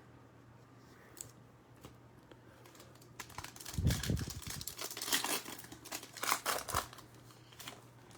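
Trading-card pack wrapper being torn open and crinkled, with the cards handled inside it, about three to seven seconds in; a few faint ticks before it.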